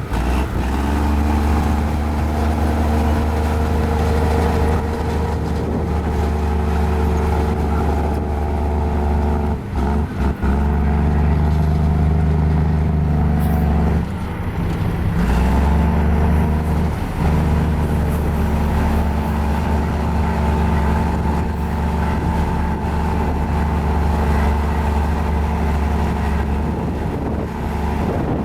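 Diesel engine of a mini Komatsu bulldozer running under steady load while pushing fill, its pitch shifting a little, with brief dips about ten seconds in and again around fourteen to fifteen seconds.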